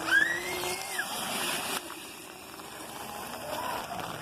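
Razor electric dirt bike's motor whining up as it is throttled, the pitch rising, holding, then dropping away after about a second, with a watery hiss from the wet ground that cuts off suddenly near the middle.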